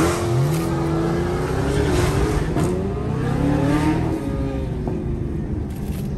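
Car engine revving hard under acceleration, its pitch sweeping sharply up at the start, then holding high and wavering, with further rises about two to four seconds in. It sits over a steady low drone.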